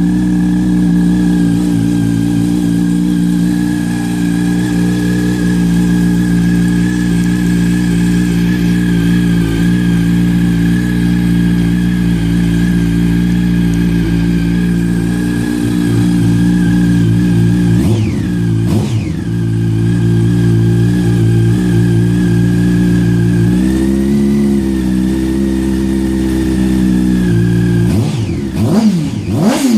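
Yamaha R1's inline-four engine idling steadily through a Remus aftermarket exhaust. A single quick throttle blip comes about two-thirds of the way in, the idle steps up slightly for a few seconds, and it is blipped sharply a couple of times near the end.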